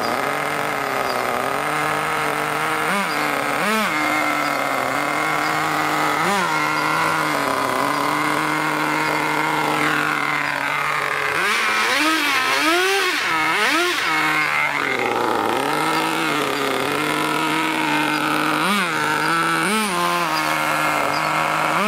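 Motor of an Exceed RC monster truck running steadily, its pitch rising and falling in short revs. There is a burst of several quick revs about halfway through and a couple more near the end.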